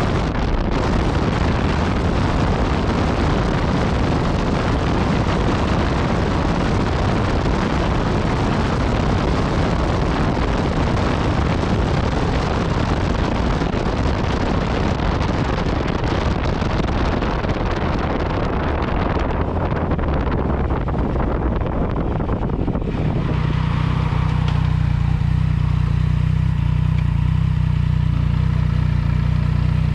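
Yamaha MT-09 Tracer's inline-three engine running through an Akrapovic exhaust while riding, with heavy wind rush on the microphone. About 23 seconds in, the wind noise drops away and a steady low engine note remains.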